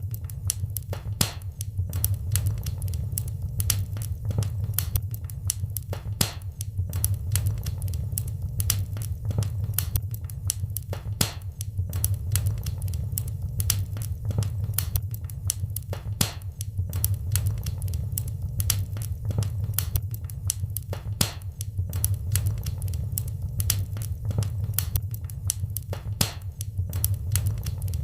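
Wood fire crackling in a fireplace: a continuous run of sharp pops and snaps, several a second, over a steady low rumble of the flames.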